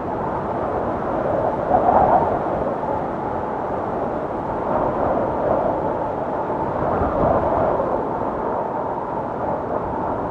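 Blizzard wind blowing steadily, swelling in soft gusts every few seconds.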